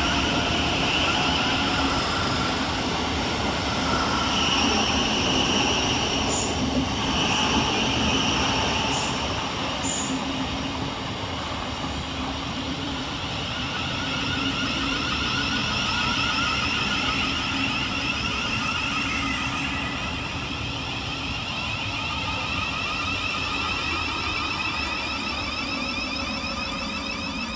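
Siemens Class 700 Thameslink electric multiple units running through the station: a steady rush of wheels on rail with high, held tones over it, and a few sharp clicks between about six and ten seconds in.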